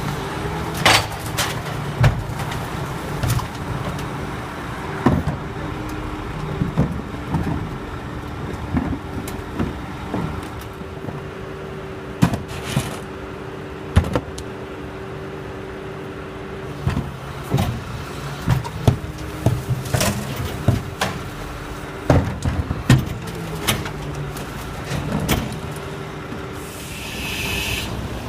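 Garbage truck engine running steadily, with repeated metallic clanks and bangs throughout and a short hiss near the end.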